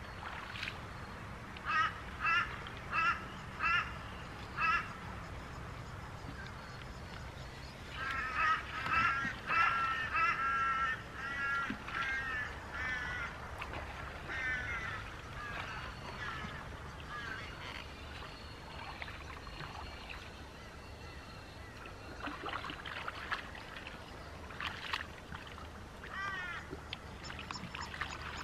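Birds calling: five short calls in quick succession, then after a pause a longer run of repeated calls, with scattered calls later on.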